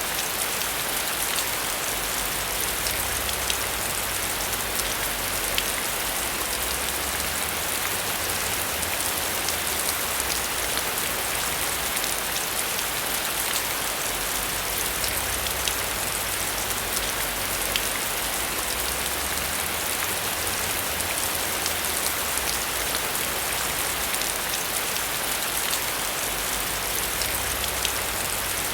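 Steady heavy rain, an even hiss with many individual drops ticking sharply as they hit close by.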